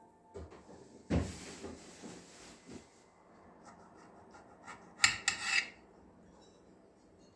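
A scraping rub starting about a second in and lasting about two seconds, then a quick cluster of sharp clicks and knocks about five seconds in, the loudest part.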